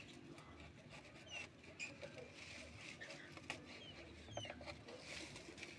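Faint rustling and scratching of nest material being handled, with a few light clicks, and several short, faint high bird chirps scattered through.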